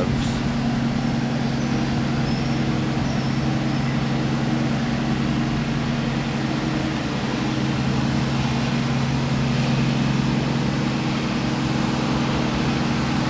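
Steady drone of engine-driven tree-removal machinery working on a gum tree, a constant low hum that holds the same level throughout.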